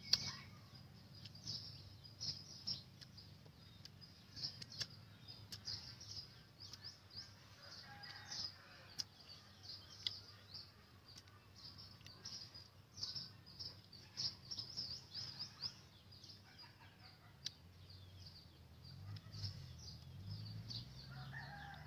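Small birds chirping: many short, high calls repeating over and over.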